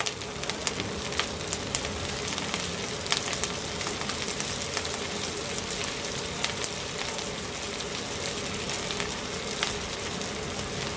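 Chopped green chillies and cumin seeds just added to hot oil in a wok, frying with a steady sizzle and scattered small crackles.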